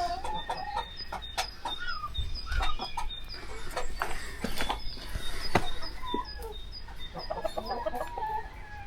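Chickens clucking in short, scattered calls, with a quick run of clucks near the end. Small birds chirp faintly and repeatedly in the background, and a few sharp clicks stand out.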